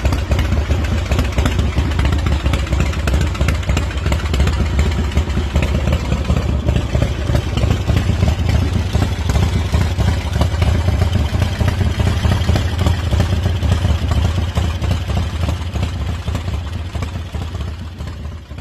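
Custom chopper's S&S V-twin engine running steadily with a deep, pulsing exhaust; it fades away near the end.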